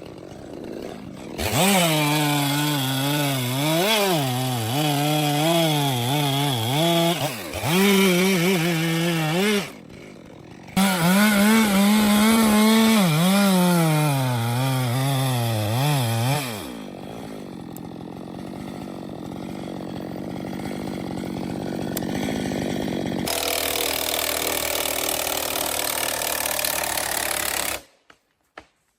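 Chainsaw engine running at high revs, its pitch rising and dipping again and again as it works through a cut. It breaks off briefly about ten seconds in. Later a quieter, steadier run gives way to a different steady hum, which stops abruptly near the end.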